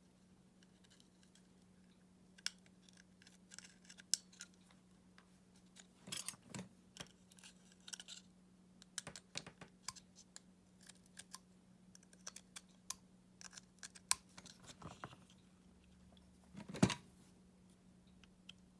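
Scattered light clicks, taps and short scrapes of small hard parts being handled, with one louder knock near the end, while a cordless screwdriver's battery pack is taken apart.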